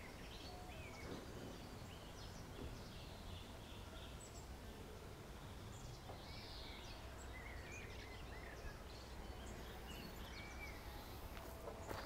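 Faint birdsong: several small birds chirping and warbling here and there over a steady low outdoor rumble.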